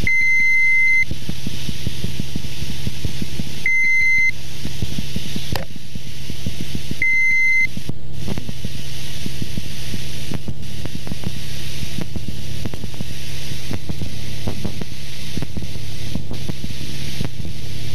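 Cessna 172's piston engine droning steadily, heard inside the cabin. Three short, high electronic beeps come in the first eight seconds, each well under a second long and about three and a half seconds apart.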